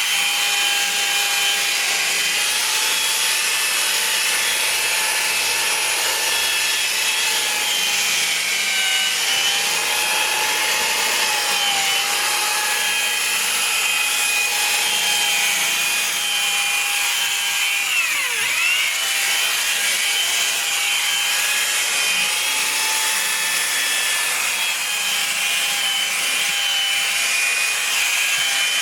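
A small electric motor of a cleaning tool whining steadily over a hiss, its pitch dipping briefly about two-thirds of the way through as if it were loaded for a moment.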